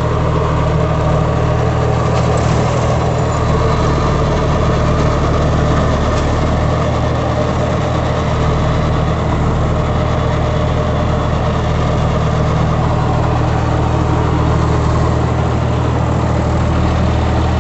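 Farm tractor's diesel engine running steadily at an even speed, with a strong low drone.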